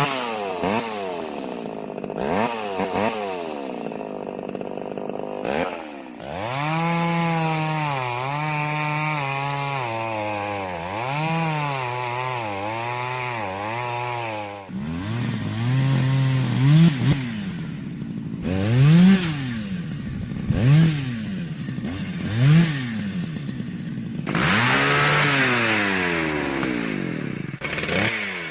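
Chainsaw engine running and being revved repeatedly: a wavering steady stretch, then several quick throttle blips that rise sharply and drop back, and near the end a longer high-revving run.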